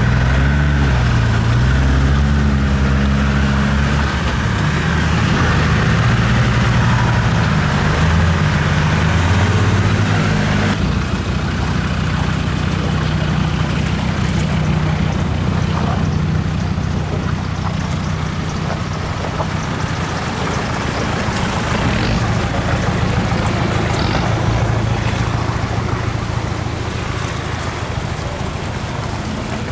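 A 4x4's engine running while driving off-road, its pitch rising and falling with the throttle. The sound changes abruptly about a third of the way in.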